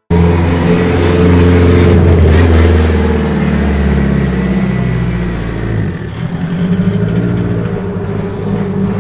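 A car engine running loud and close, its pitch mostly steady, dipping about six seconds in and then picking up again; it starts and stops abruptly.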